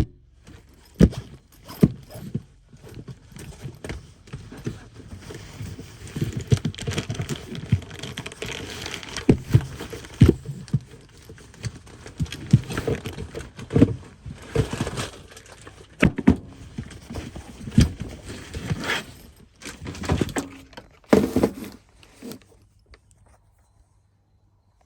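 Handling noises: irregular knocks, clicks and rattling with some rustling as objects are moved about and taken out, dying away near the end.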